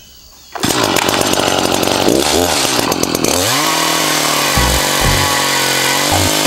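Echo CS-590 two-stroke chainsaw running as it rip-cuts lengthwise through an oak log, guided by a Beam Machine mill attachment. It starts abruptly about half a second in, and after a few seconds the engine settles to a steady pitch in the cut.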